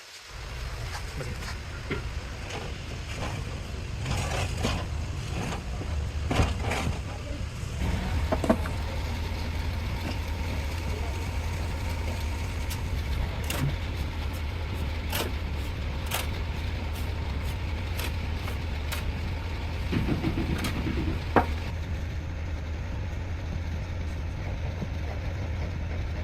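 Heavy machinery running with a steady low rumble, with scattered sharp knocks and clicks over it.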